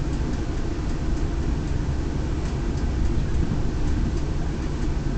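Electric passenger train heard from inside the carriage: a steady low rumble with a few faint light ticks on top, and no loud bangs.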